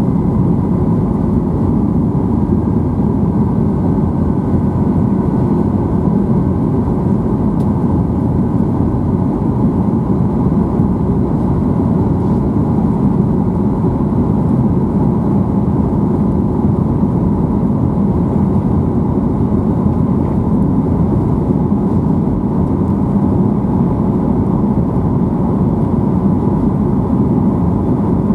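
Steady drone of a Boeing 737-800's CFM56 jet engines and rushing air, heard inside the cabin, with a faint steady whine above it.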